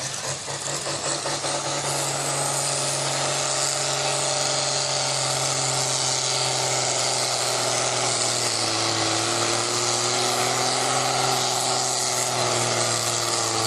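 Pulling tractor's engine running hard at high, steady revs with a high whine over it. It grows louder over the first couple of seconds and its pitch dips slightly about two-thirds of the way through.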